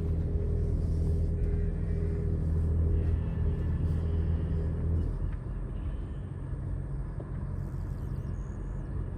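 Truck engine running at low speed with a steady low hum, heard from inside the cab; the engine note drops and quietens about five seconds in.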